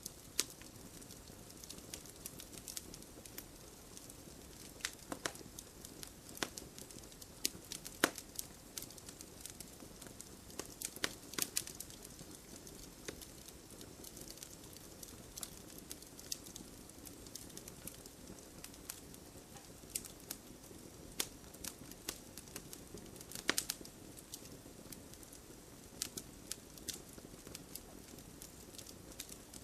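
Wood campfire crackling: sharp, irregular pops and snaps of burning wood, several louder ones about 8, 11 and 23 seconds in, over a low steady rush of the flames.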